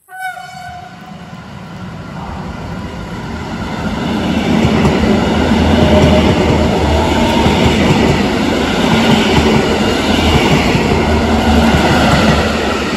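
A Koleje Mazowieckie electric multiple unit approaches and runs past close by with a steady rail rumble and wheel clatter, growing louder over the first few seconds and then holding. It opens with a brief horn-like note that fades within half a second.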